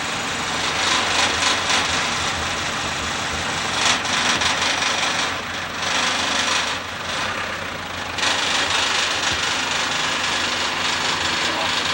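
Shop tool noise: a steady, hissing rasp of a tool abrading or working on material, which eases off briefly twice in the middle.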